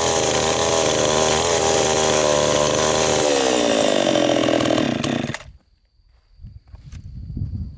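Two-stroke chainsaw engine running steadily at high revs. About three seconds in its pitch falls away, and it cuts off abruptly a little after five seconds. Faint low noises and a thin, steady high tone follow.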